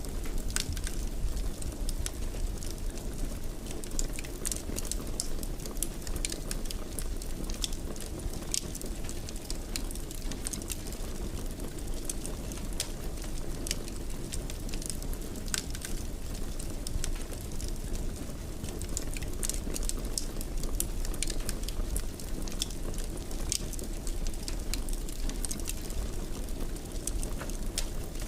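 Wood fire burning in a fireplace: irregular crackles and pops over a steady low rumble of the flames.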